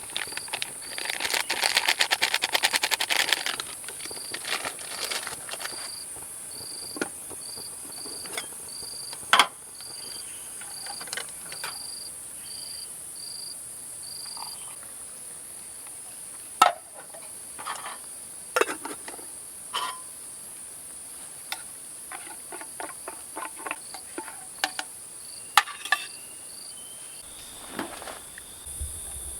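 Tropical forest insect chorus: a steady high-pitched insect hiss, with a cricket chirping in an even rhythm through the first half. A loud, rapid rattling buzz comes about a second in and lasts a couple of seconds, and sharp clicks and knocks are scattered through the rest.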